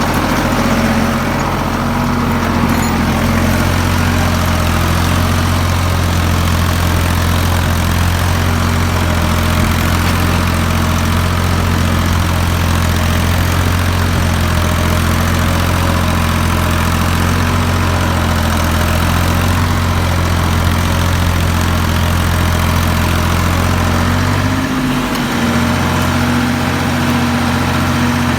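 Ford 3600 tractor's three-cylinder engine running steadily, pulling an 11-tine cultivator. The engine note wavers briefly near the end.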